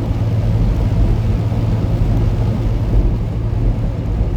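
Semi-truck's diesel engine and road noise, a steady low drone while driving.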